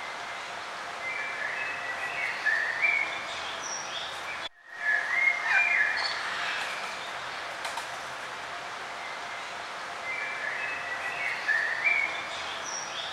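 Birds singing: short chirping, gliding phrases in a few bursts over a steady background hiss. The sound cuts out abruptly for a split second about four and a half seconds in.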